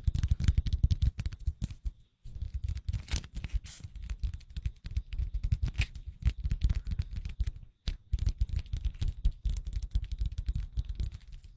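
Fast ASMR tapping on a small object right at the microphone: a dense run of quick taps with close-up low thumps, stopping briefly about two seconds in and again near eight seconds.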